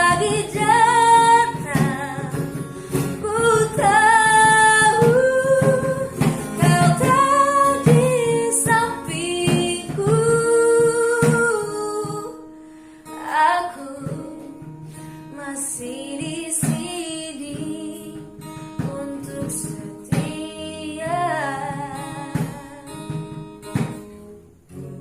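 A woman singing a song with acoustic guitar accompaniment. The singing is loud and sustained for about the first half, then turns quieter and more broken, with the guitar carrying on beneath.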